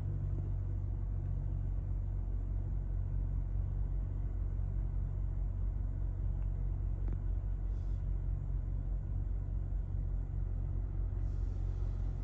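2017 BMW 640i Gran Coupe's turbocharged 3.0-litre inline-six idling steadily on a cold start, the engine still cold after sitting overnight. A steady low-pitched drone.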